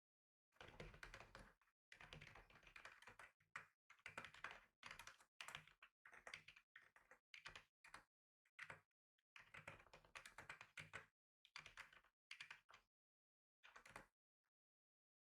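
Typing on a computer keyboard: quick runs of key clicks in bursts of a second or so, with short pauses between them, stopping shortly before the end.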